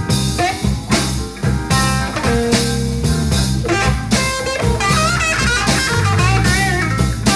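Blues-rock band playing an instrumental passage: electric guitar over bass and drum kit, the guitar playing bending, wavering lead notes in the second half.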